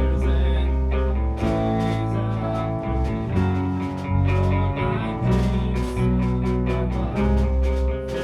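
Instrumental band music with electric guitar, bass and drums, playing a steady beat.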